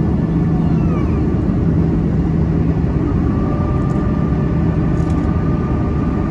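Airbus A330 airliner's jet engines running steadily during takeoff: a continuous noise with a low steady hum, and a faint high steady tone joining about three seconds in.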